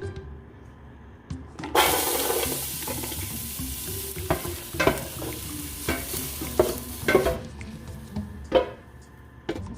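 Food frying in a pan, a sizzle that starts suddenly about two seconds in and cuts off about seven seconds in, while a utensil stirs and knocks against the pan several times.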